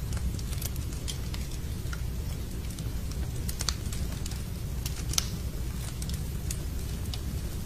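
Wood fire crackling in a fireplace: irregular sharp pops and snaps over a steady low rumble, with a louder pop about five seconds in.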